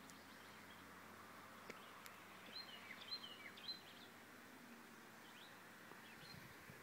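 Near silence with a faint steady hiss; a bird gives a quick run of short, high chirps in the middle, and a couple more faint ones follow later.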